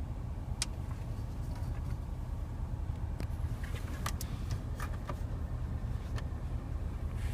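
Steady low rumble inside a car's cabin, with a few light clicks scattered through it.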